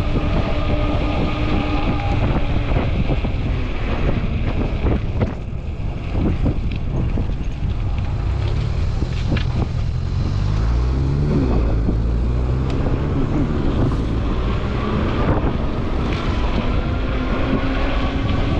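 Electric hub motor of a fat-tire e-bike whining steadily under power, with heavy wind rumble on the microphone and tyre noise. The whine fades for several seconds in the middle, when a lower rumble rises and falls in pitch, then comes back near the end.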